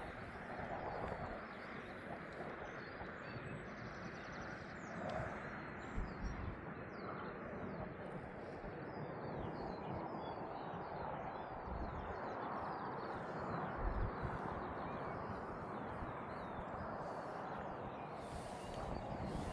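Small birds chirping in many short, quick notes over steady outdoor background noise, with a couple of brief low bumps in the middle.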